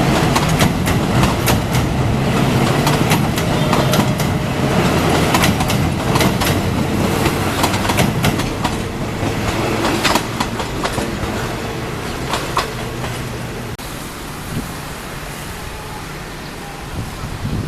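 Train passing over a railway bridge: wheels clattering over the rail joints above a low rumble. The clatter thins out and the sound fades in the last few seconds as the train moves away.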